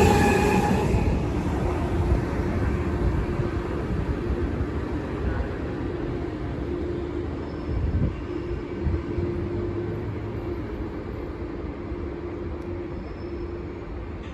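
A train rumbling past and moving away, its sound fading steadily; a high-pitched wheel squeal dies out about a second in, leaving a low rumble and a faint steady hum.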